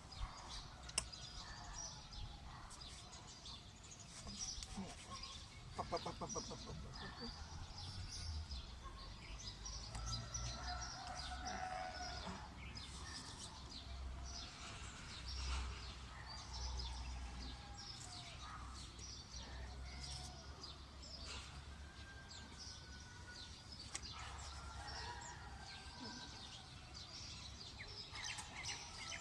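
Small birds chirping and twittering in scattered, overlapping calls, faint, with a few short whistled notes among them. A low steady rumble runs underneath.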